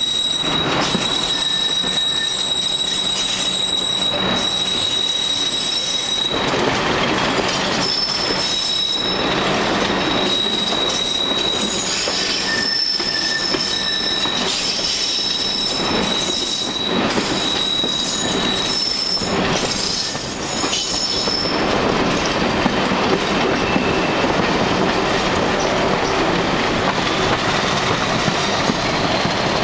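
Train's brakes or wheels squealing in several steady high whines that come and go as it rolls slowly to a stop, over a rolling rumble; the squeal dies away about 22 seconds in. The train, hauled by Class 50 diesel 50008, is coming to a stand after the locomotive reportedly ran out of fuel.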